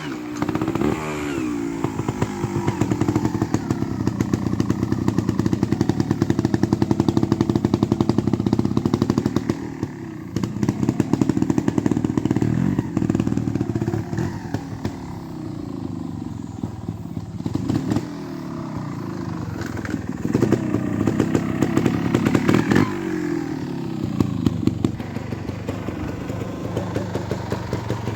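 Beta Evo trials motorcycle engine running at low revs and blipped repeatedly, the pitch rising and falling in short bursts of throttle.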